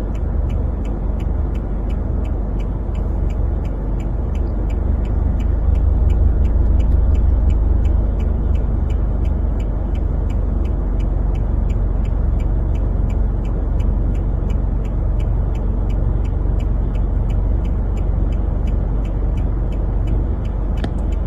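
Steady low rumble of an idling vehicle engine, with a fast, even ticking throughout.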